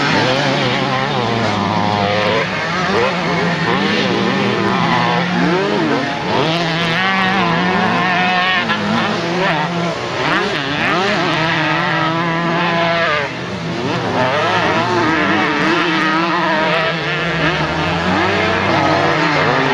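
Several vintage motocross motorcycles racing, their engines revving up and down, with overlapping pitches rising and falling as they accelerate and shift.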